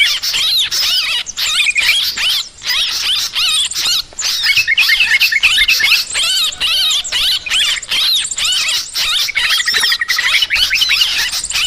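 A noisy chorus of yellow-vented bulbuls (trucukan) calling over one another in a dense, unbroken stream of bubbly chirps, the kind of agitated flock calling used as a bird-trapping lure. Short, higher trilling notes are mixed in.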